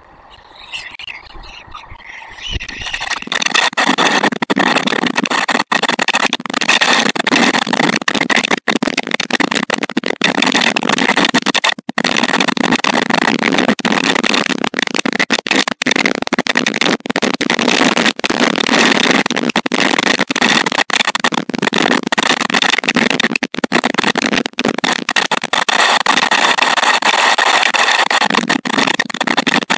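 Loud, steady rushing hiss of a thunderstorm's rain and wind on the nest camera's outdoor microphone, rising about three seconds in and holding.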